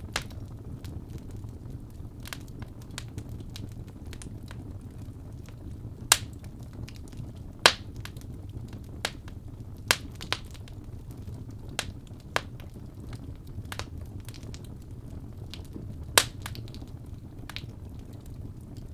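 Wood fire crackling: a steady low rumble with irregular sharp pops, the loudest about six, eight, ten and sixteen seconds in.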